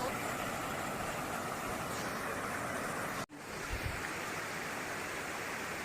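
Waterfall's falling water rushing with a steady, even noise, cut off for an instant about three seconds in before carrying on.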